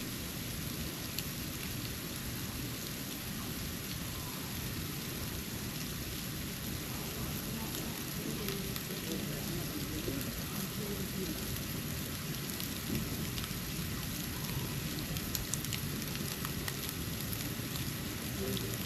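Snow falling and pattering on surfaces: a steady soft hiss with scattered light ticks of flakes landing, over a steady low rumble.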